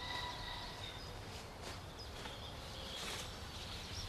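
Faint outdoor ambience: a low, steady background with a few soft, brief sounds.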